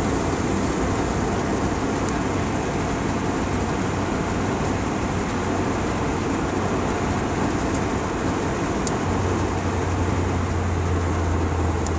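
Steady road and engine noise inside a moving car's cabin, with a low hum that grows stronger near the end.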